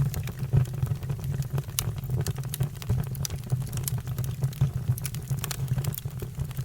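Fire crackling, with frequent sharp irregular pops and snaps over a steady low rumble.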